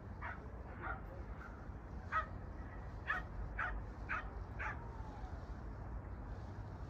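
A dog barking about seven times, the last four in quick succession about half a second apart, over a low steady rumble.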